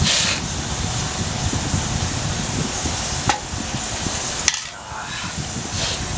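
Food sizzling in a pan over a wood fire, with a low rumble underneath and two sharp utensil clicks partway through.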